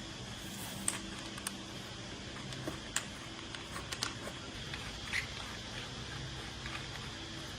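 Scattered light clicks and taps of metal parts and tools being handled during repair work, over a steady low hum.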